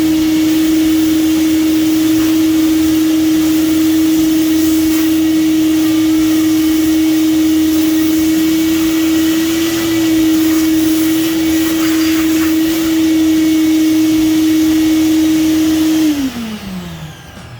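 Craftsman shop vacuum running steadily with a strong motor hum over a rushing hiss, sucking up metal chips. Near the end it is switched off and the motor's whine falls away as it spins down.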